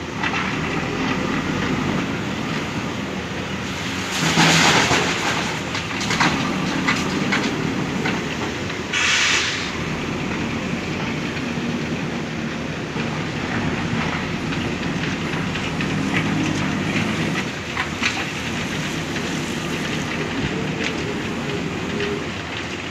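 Backhoe loader's diesel engine running under work, with scattered metallic clanks and two short hissing bursts, about four and nine seconds in.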